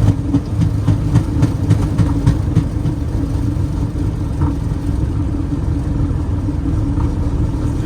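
Cockpit noise of a Boeing 737NG on its landing rollout: a steady low rumble of engines and wheels on the runway with a constant hum, and a run of light knocks in the first two or three seconds.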